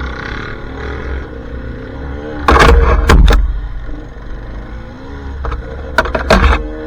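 Off-road dirt bike engine revving up and down over rough trail, with loud knocks and low rumbling around three seconds in and again near the end.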